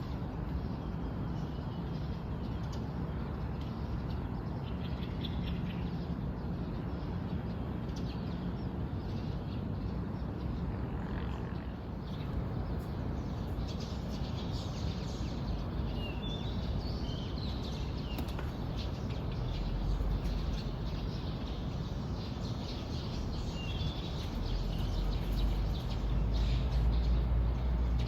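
Small birds chirping in short scattered calls over a steady outdoor hiss. A low rumble builds in the second half, loudest near the end.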